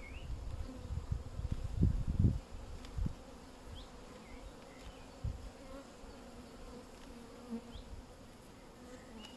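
Honeybees buzzing steadily around an open hive, a constant low hum. Low rumbling bumps in the first three seconds, loudest about two seconds in.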